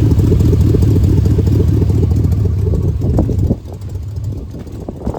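4.8-litre Vortec V8 of a 2002 Chevrolet Silverado idling with a rapid low pulsing, which drops sharply in level about three and a half seconds in. A few light knocks come near the end.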